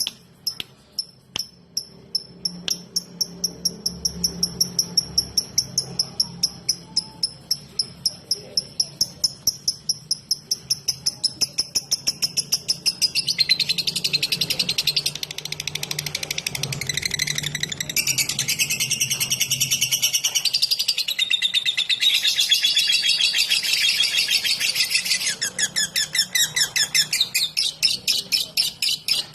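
Lovebird giving its rapid 'ngetik' (ticking) song: a fast run of sharp, high chirps, about four a second, that thickens into dense, continuous chattering about halfway through.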